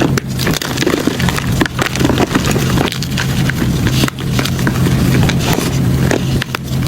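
Gym chalk being crushed by hand, giving a dense run of irregular crunches and crackles as it crumbles, over a steady low hum.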